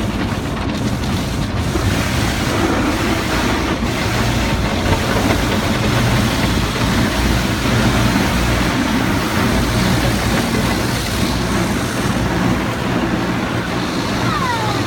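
Car wash running: a steady rush of water spray and machinery over a low, even hum.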